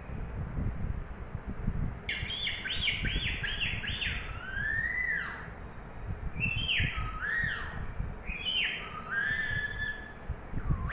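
Sleepy pet green parrot making a run of short whistled calls that sweep up and down in pitch, starting about two seconds in: first a quick string of short notes, then longer swooping ones, with a brief pause midway. A steady low rumble runs underneath.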